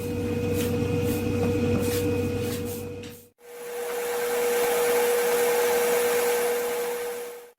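Woodworking machine running with a steady whir and a constant hum, with a few faint knocks at first. It drops out briefly about three seconds in, then a hissier machine whir continues.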